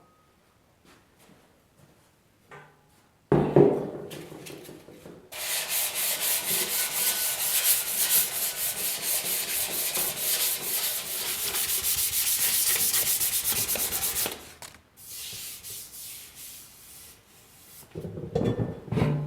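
Rapid, even rubbing strokes worked by hand over the fiberglass seat unit of a 1978 Honda ATC 90 for about nine seconds, starting after a sharp knock about three seconds in. A few knocks of handling near the end.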